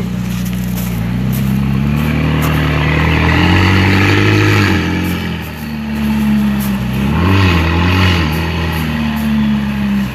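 McLaren twin-turbo V8 supercar running at low revs, its engine note rising and falling gently twice, about four seconds in and again near seven seconds.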